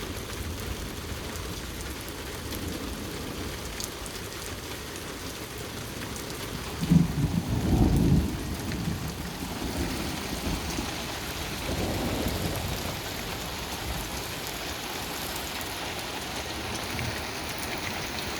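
Steady rain falling, with a thunderclap about seven seconds in that rumbles on for a few seconds before fading.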